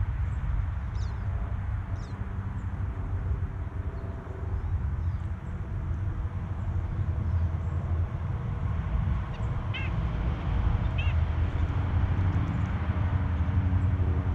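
Outdoor ambience with a steady low rumble and a faint hum. Over it come a few faint high bird chirps, then two short bird calls about ten and eleven seconds in.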